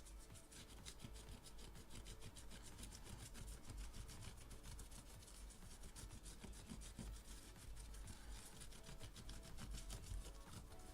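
Faint, rapid scraping strokes of hand work against a hard surface, repeated many times a second, over a low steady hum.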